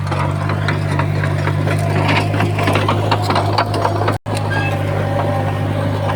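Heavy diesel earthmoving machinery running with a steady low drone and a busy metallic clatter and rattling over it. The sound drops out for a split second a little after four seconds in.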